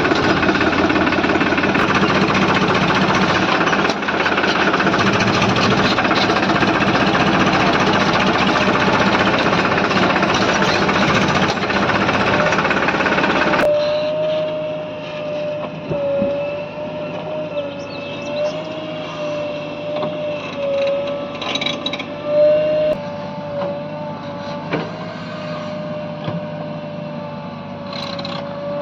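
Heavy diesel machinery running loud and hard, then cut off suddenly about halfway through, giving way to a quieter engine with a steady, slightly wavering whine and a few knocks.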